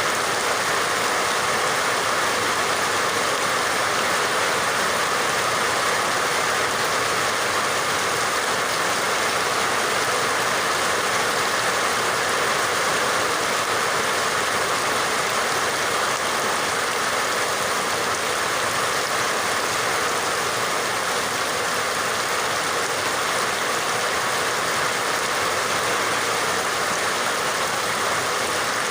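Rain falling steadily: an even, unbroken hiss of water that does not change.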